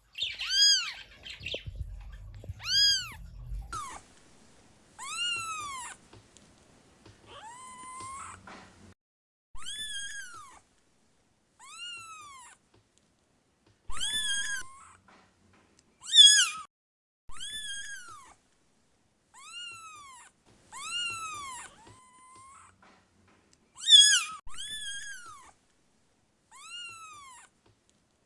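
Kittens meowing over and over: high, thin mews that rise and fall in pitch, about one every one to two seconds.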